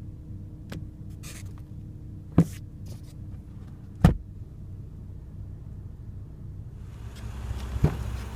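Car sun visor and its vanity-mirror cover being handled: a few light clicks and one sharp knock about four seconds in, over a steady low hum.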